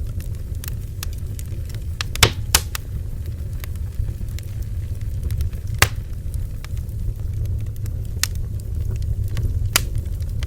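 Bonfire crackling, with scattered sharp pops over a steady low rumble; the loudest pops come about two seconds in, near six seconds and near the end.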